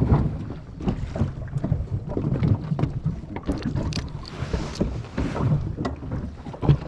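Sound aboard a small boat at sea: wind buffeting the microphone and water against the hull, with scattered short knocks.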